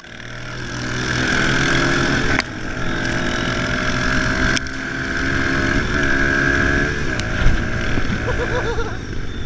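Small single-cylinder four-stroke engine of a Kawasaki KLX110 pit bike running under throttle, its pitch holding steady for stretches and shifting a couple of times.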